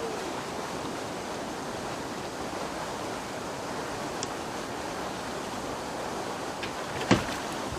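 Steady outdoor rushing noise of wind and water, with a faint tick about four seconds in and one sharp knock near the end.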